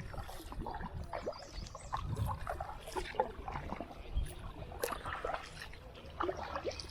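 Kayak paddling: many small splashes and drips of water as the paddle blades dip and lift, over a steady low rumble.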